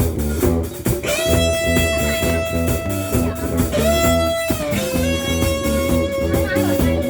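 A band playing, led by an electric guitar holding long sustained notes over a steady bass, with one note bent up and then dropped to a lower held note about four seconds in.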